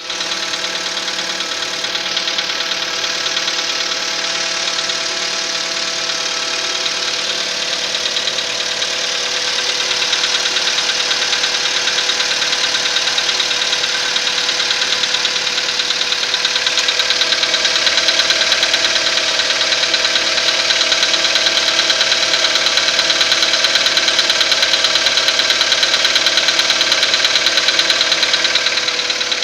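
Skoda Rapid's 1.6-litre CFNA four-cylinder petrol engine running steadily with a fast, even knock riding on its sound. The knock is the known weak point of this engine. The sound grows a little louder about ten seconds in.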